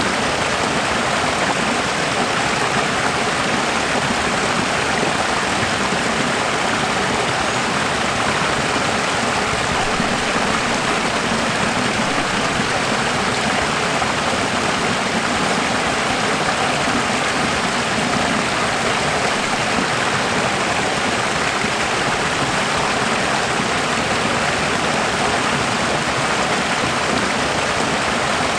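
Running water: a steady, even rush like a stream or small waterfall, with no change in level.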